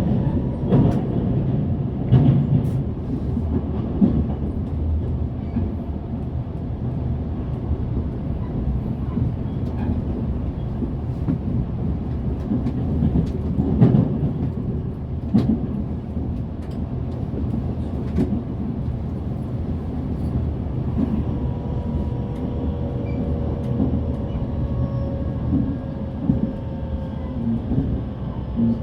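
Running sound inside a JR Central 383 series electric train: a steady rumble of wheels on rail with scattered clacks over rail joints. After about twenty seconds a faint steady whine comes in.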